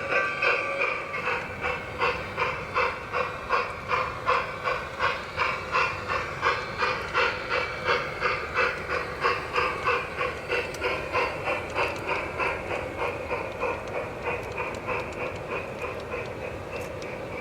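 Garden-scale model steam locomotive's sound unit chuffing steadily at about two to three chuffs a second as the train runs, growing fainter near the end.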